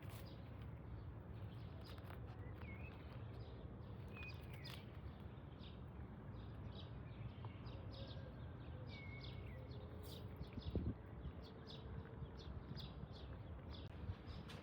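Outdoor background noise with a steady low rumble, a few faint short high chirps, and scattered light ticks; one louder knock about eleven seconds in.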